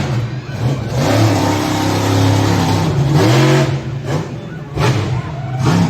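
Monster truck engine revving hard, its pitch climbing and falling several times as the throttle is blipped, with a few short, harsh bursts of noise in the second half.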